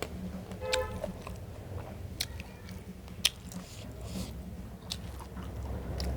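Close-miked eating sounds of someone chewing chicken meat: wet chewing with irregular sharp mouth clicks and smacks, over a steady low hum.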